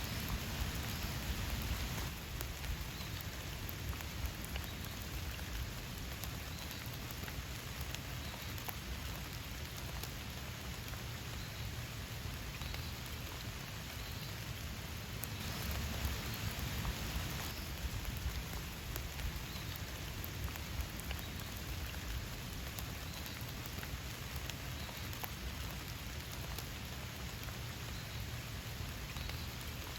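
Steady rain falling, growing a little heavier for a couple of seconds about halfway through.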